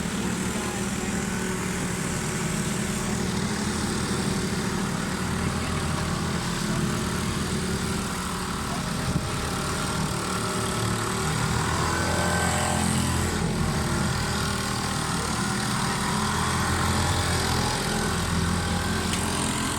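Small engines of bumper boats running steadily together, with one sharp knock about halfway through.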